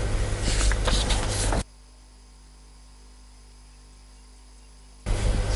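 Steady outdoor noise of rushing air with a few scratchy high flutters. It cuts off abruptly about a second and a half in, leaving only a low steady hum, and returns just as abruptly near the end.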